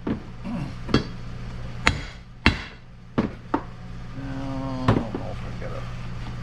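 Hammer blows on a steel block, driving a new seal into a Muncie four-speed transmission housing: about seven sharp, irregularly spaced strikes, over a steady low hum.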